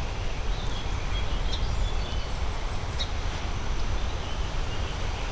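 Creekside ambience: a steady low rumble with a few faint, short bird chirps in the first couple of seconds and a faint click about three seconds in.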